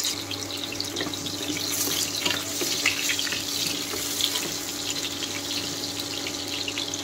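Potato pieces frying in hot mustard oil in a kadai: a steady sizzle with many small crackles.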